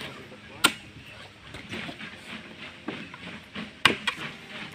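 Coconut being husked by hand: sharp chopping and ripping strikes on the fibrous husk. Two loud strikes come about half a second in and near the end, with smaller knocks between them.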